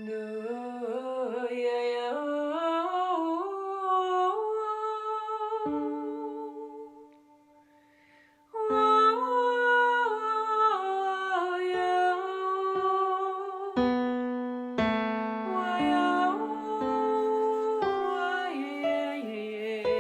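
A woman sings wordlessly with vibrato, over electronic keyboard-like notes from a Music of the Plants device that turns a plant's electrical signals into tones. The sound dies away for about a second and a half around seven seconds in, then comes back with a run of stepped notes.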